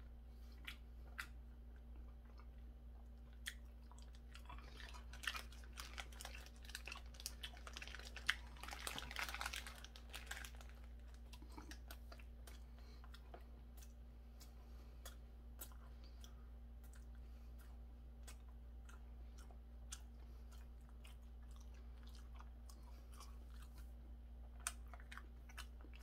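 Faint close-up chewing of a hamburger: wet mouth clicks scattered throughout, with a denser stretch of crackling in the middle, over a steady low hum.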